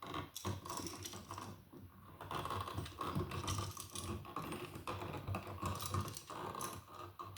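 Irregular small clicks and scrapes of stiff electrical wires and a wall receptacle being handled and bent into shape during wiring.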